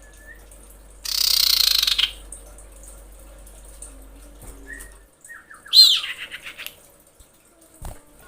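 Female common iora calling. It gives a harsh rasping note for about a second, starting about a second in. Past the middle comes a short whistle, then a fast run of falling notes.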